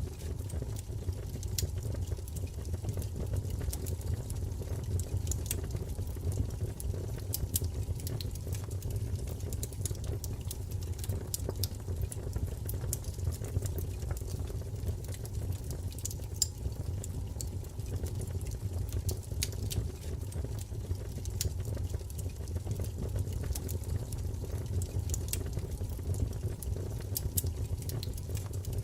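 Wood fire burning: a steady low rumble of flame with irregular sharp crackles and pops from the burning wood, scattered several times a second.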